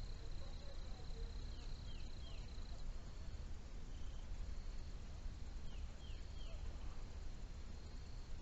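Outdoor nature ambience: a steady high trill that pulses on and off over a low rumble. A bird call of three quick falling notes comes twice, a few seconds apart.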